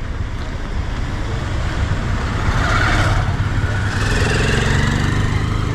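Outdoor street noise with a motor vehicle passing close, its engine growing louder about halfway through, over a heavy low rumble.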